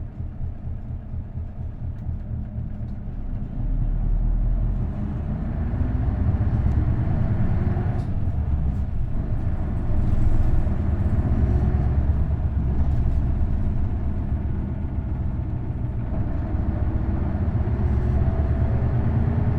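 Isuzu Erga bus's V8 diesel engine running under load through its manual five-speed gearbox, heard from inside the cabin. The engine pitch climbs, breaks off around eight seconds in and climbs again, as the bus accelerates and changes gear.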